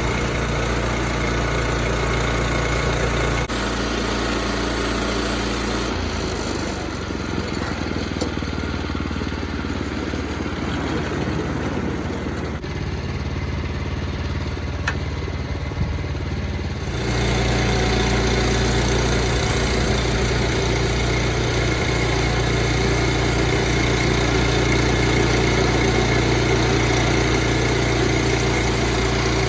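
The engine of a small sawmill running steadily. It eases off for about ten seconds in the middle and then picks back up, running hard again for the rest of the time.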